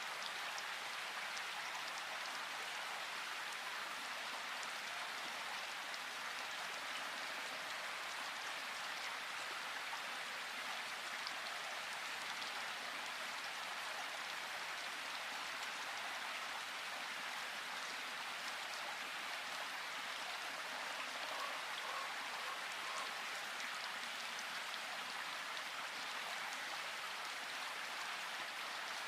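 Steady rain falling in a forest, an even hiss of drops on leaves and ground that stays level throughout.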